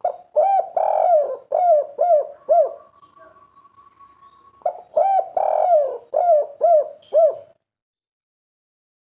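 Spotted dove cooing in two rapid phrases of repeated rising-and-falling coos, the second starting about a second and a half after the first ends.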